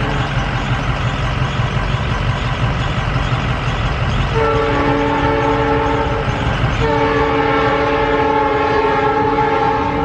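Long Island Rail Road train's multi-tone chime horn sounding two long blasts, the first starting about four seconds in and the second, after a brief gap, held on to the end, over the low rumble of the running train.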